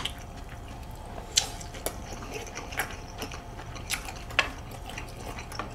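Eating sounds: chewing with a few sharp mouth clicks and smacks at irregular intervals, over a faint steady hum.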